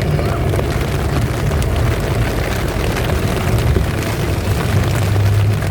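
Steady low rumble of a vehicle travelling on the road, under the even hiss of heavy rain. The rumble swells briefly near the end.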